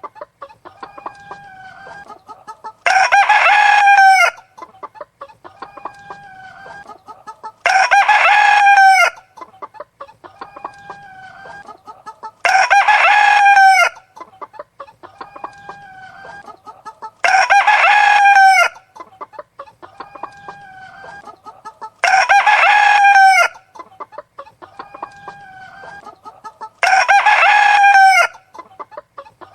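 Rooster crowing six times at an even spacing of about five seconds, each crow lasting about a second and a half, with softer chicken clucking in between.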